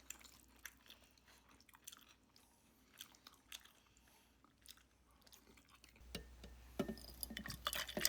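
A person eating pulled pork close to the microphone: soft chewing with scattered small wet clicks, louder and busier from about six seconds in.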